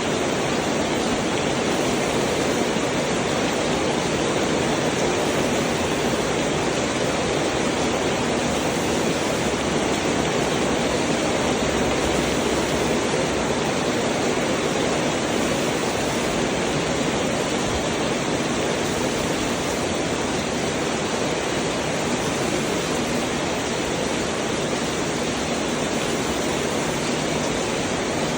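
Heavy rain falling steadily: a dense, even hiss that neither builds nor eases.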